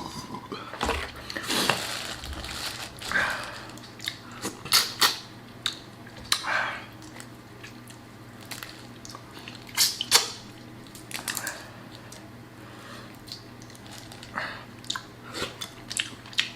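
Close-miked eating of boiled crawfish: chewing and lip smacks with irregular sharp cracks and clicks from the shells being peeled and bitten.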